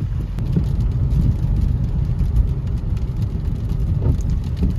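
Car on the move, heard from inside: a steady low rumble of road and engine noise.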